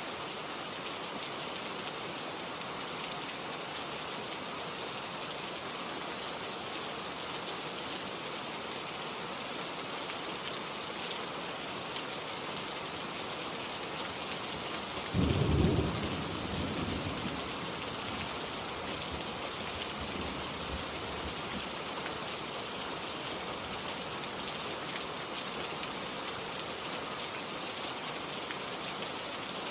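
Steady rain falling, an even hiss of drops on surfaces. About halfway through a brief low rumble starts suddenly and fades away over a couple of seconds.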